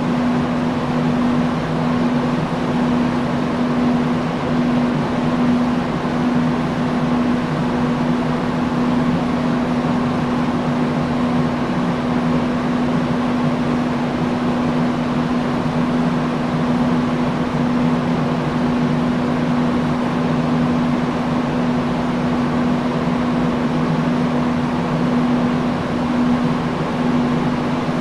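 Industrial fan running steadily: a constant rush of moving air with a steady low hum from the motor.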